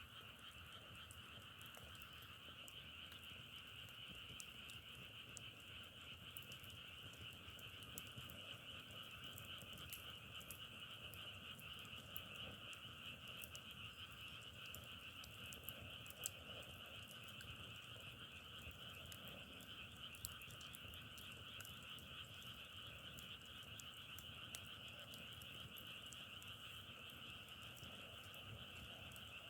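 A dense chorus of many frogs calling at once, making a steady, faint, crackling massed trill. Scattered small clicks sit over it, with a couple of sharper ones in the middle.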